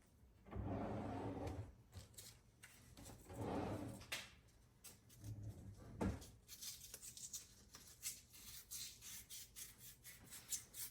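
Hand sanding of a small hole in a pinball part, heard as quick, repeated rasping strokes that start about six and a half seconds in. Earlier there are two louder, duller handling sounds.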